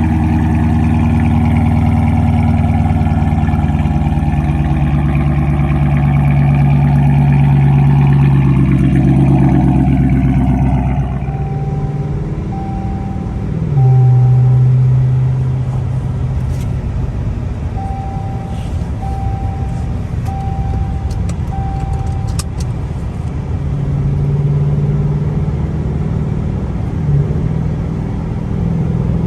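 Loud exhaust of an R/T car cruising: a steady engine drone under throttle for about ten seconds, then easing off. A brief loud rev about halfway through settles into a lower steady drone, with two runs of short, evenly spaced beeps over it.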